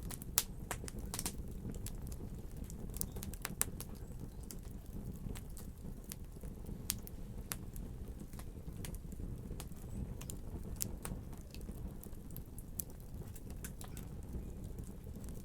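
Wood fire crackling in a fireplace: irregular sharp pops and snaps over a steady low rumble of the burning fire. The pops come thickest in the first few seconds and more sparsely after that.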